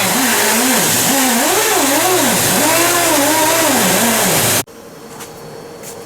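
A loud motor whine over a steady hiss, wandering up and down in pitch, which cuts off abruptly about four and a half seconds in and leaves a much quieter hum.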